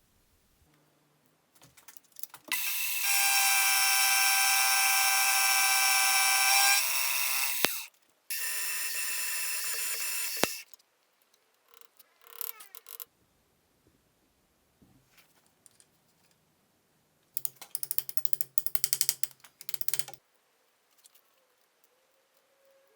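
A motor-driven workshop tool running in separate bursts: a loud steady whine for about five seconds, a shorter quieter run, and later a few seconds of fast rhythmic clattering.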